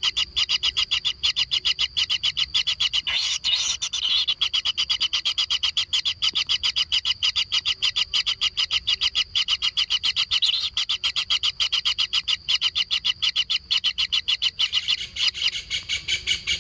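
Kingfisher nestlings begging: a continuous rapid pulsing churr, about six pulses a second, with a brief louder rasp about three and a half seconds in.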